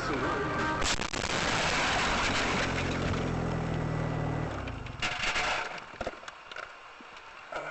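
Car collision: a sudden bang about a second in, then a few seconds of harsh noise over a low engine hum, with a few knocks and clicks after it.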